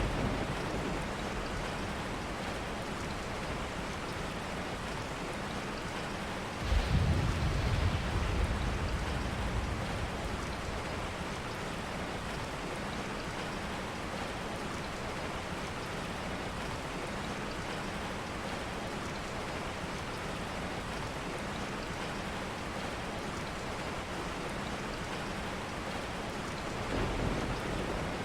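Steady rain falling, with a sudden low rumble of thunder about a quarter of the way in that fades over a few seconds, and a fainter rumble near the end.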